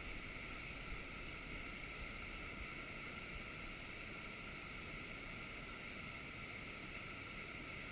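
Steady, even rush of creek water flowing over a riffle.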